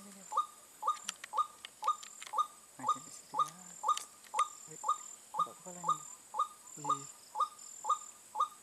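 White-breasted waterhen (ruak-ruak) calling: one short rising note repeated evenly, about twice a second.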